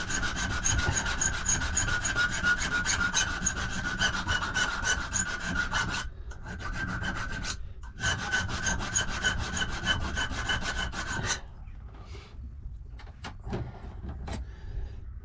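Hand file rasping over a welded steel safe key clamped in a vise, the metal giving a steady high ring under the strokes. The filing pauses briefly about six seconds in, resumes, and stops a little after eleven seconds, leaving a few light scrapes and knocks.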